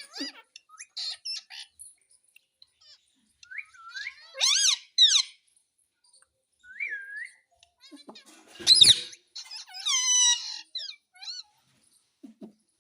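Pet parrot calling: high chirps and whistled glides with two loud screeching squawks, one about four seconds in and a longer one near nine seconds.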